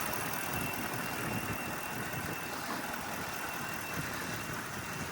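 Stock 5.0-litre Coyote V8 of a Ford F-150 idling steadily, pretty quiet.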